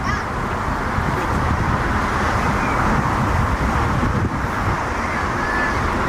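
Steady roar of jet airliner engines, even in level throughout.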